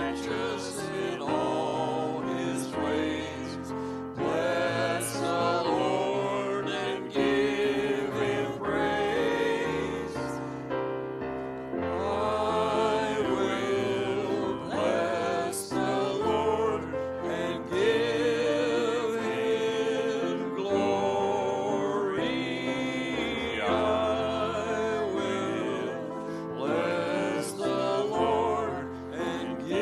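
Church music: voices singing over instrumental accompaniment with held low bass notes.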